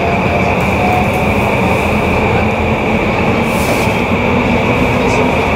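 Steady noise of a JR East E235-1000 series electric train in an underground station, with a constant high-pitched whine over the rumble.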